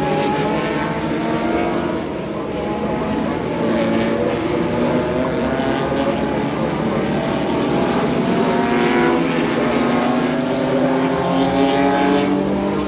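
Several historic race cars' engines running at speed together, their overlapping engine notes rising and falling as the cars pass.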